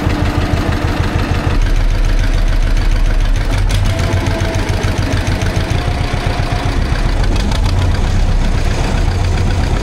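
John Deere tractor engine, just started and running out of gear with the throttle raised a little, in an even pulsing beat. The low rumble grows stronger about a second and a half in.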